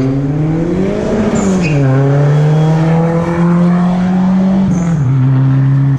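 Dodge Charger's 345 Hemi V8 being revved. The revs climb for about a second and fall back, then are held up for about three seconds and settle near the end. To the listener it sounds boosted.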